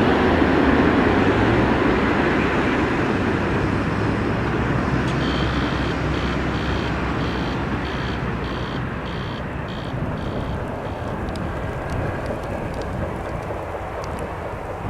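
Jet airliner engine noise, a loud steady roar that slowly fades away. About five seconds in, a faint high beeping joins at roughly two beeps a second.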